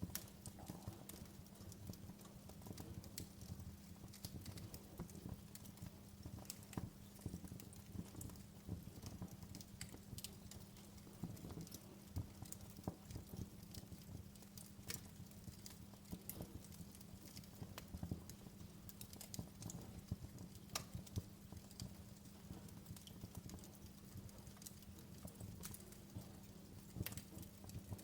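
Wood fire crackling in a fireplace: irregular sharp pops and snaps, several a second, over a faint low steady hum.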